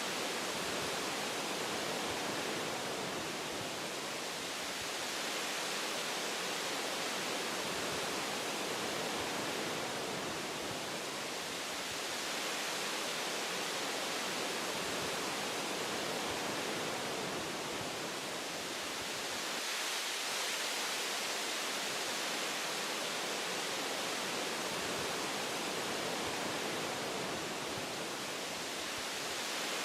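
Wind blowing through forest tree branches: a steady rushing hiss that swells and eases gently every several seconds.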